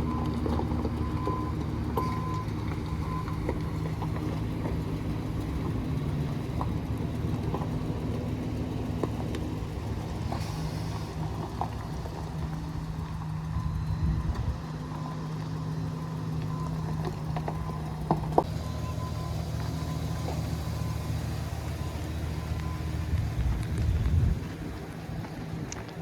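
Chevrolet Silverado pickup truck engine idling steadily, with a faint steady high tone coming and going, and dropping in level near the end.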